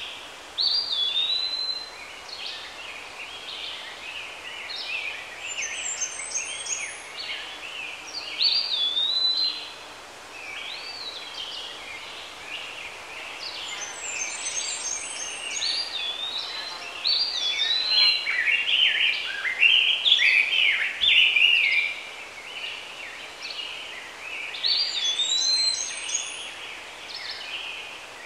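Birds singing: one bird repeats the same short whistled phrase every several seconds while others chirp, over a faint steady background hiss.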